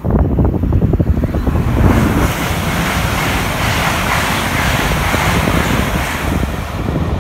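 LNER Azuma high-speed train passing at speed: a loud, steady rushing of wheels and air that builds about two seconds in, with wind buffeting the microphone.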